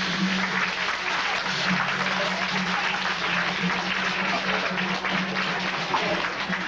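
Audience applauding: many hands clapping in a dense, even patter, over a steady low hum.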